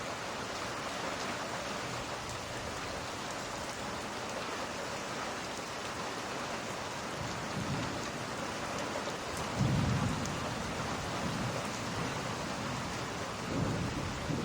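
Steady rain with low rolls of thunder rumbling in about halfway through, the strongest a little after that.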